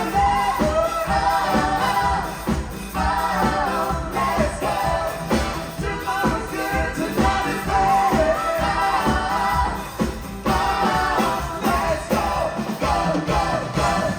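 Live pop-style song from a stage show: singers over a band with a steady beat.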